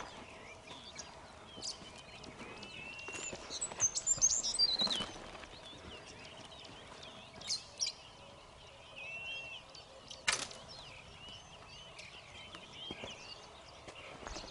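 Birds chirping and calling, with one loud run of high whistles falling in pitch about four seconds in. Several sharp clicks or snaps, the strongest about ten seconds in.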